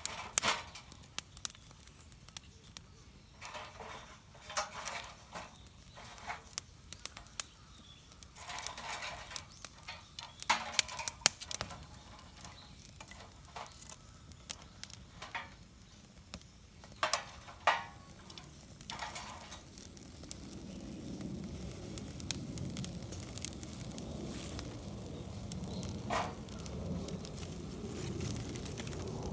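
Wood campfire crackling, with frequent sharp pops and snaps. In the last third a steadier low rushing noise builds under the crackle.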